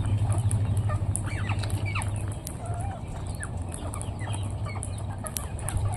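Parrots calling: a scatter of short squawks and chattering notes, some sliding in pitch, over a steady low hum.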